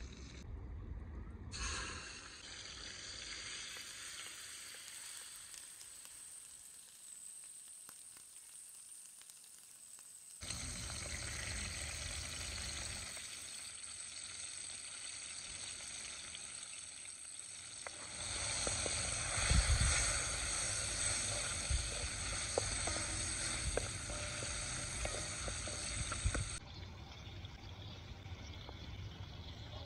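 Food sizzling in a frying pan, a steady hiss whose level jumps abruptly several times, with a few low knocks a little past the middle.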